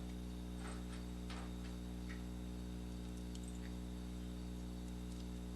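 Steady electrical hum with a few faint, light clicks of metal parts being handled.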